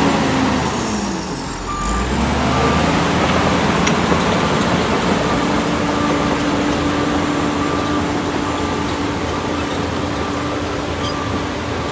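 Heavy diesel construction machine running under load, its engine note dipping and rising again early on, with a reversing alarm beeping a little more than once a second from about two seconds in.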